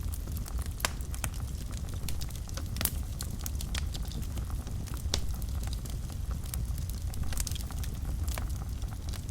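Wood fire burning in a fireplace: a steady low rumble of the flames under frequent, irregular sharp crackles and pops, a couple of them louder than the rest.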